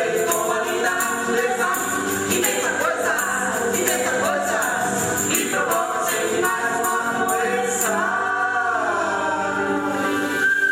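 A group of voices singing a song together, with a tambourine shaking along. About eight seconds in the percussion drops away and the voices hold a long final note.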